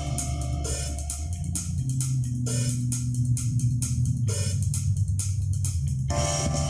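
Recorded pop music played through an Audioart AR-115MP car stereo and its speakers: a steady drum beat about twice a second over a heavy bass line. It is the first seconds of an MP3 track from a USB stick, played in the stereo's intro-scan mode.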